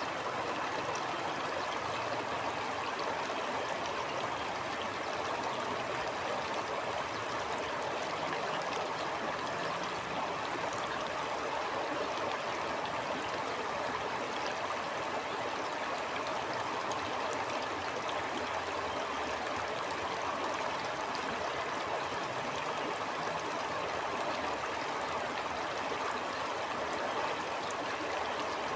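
A stream flowing steadily over stones, an even rushing and babbling of water.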